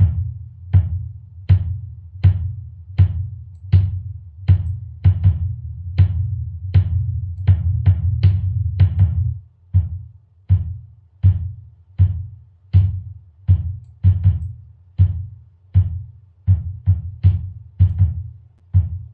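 Sampled drum pattern from Addictive Drums 2's room-mic channel playing solo through a hard-set compressor: a drum hit about every three quarters of a second, with smaller hits between. For the first half a continuous low boom holds between the hits, as a slow compressor release keeps the tail up; about halfway through the boom drops away and each hit dies out before the next, as the release is made faster.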